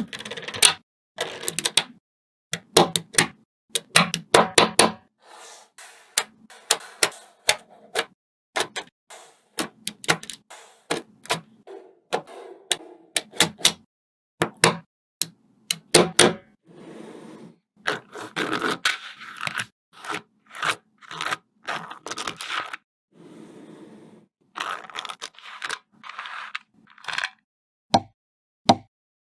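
Small coloured magnetic balls snapping together with sharp irregular clicks, and scraping and rattling as they are slid and pressed into place while a model is built.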